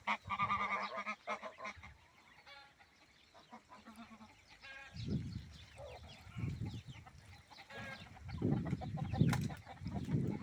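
A protective farm bird guarding its young gives a run of loud honking calls in the first couple of seconds. Quieter low sounds follow later.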